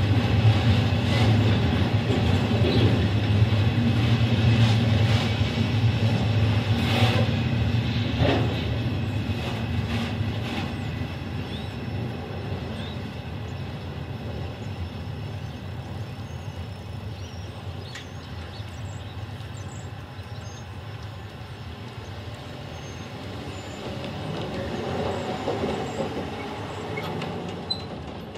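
Loaded steel coil cars at the tail of a freight train rumbling and clattering over the rails, with two sharp clanks about seven and eight seconds in. The rumble fades after about ten seconds as the last car clears. A road vehicle passes near the end.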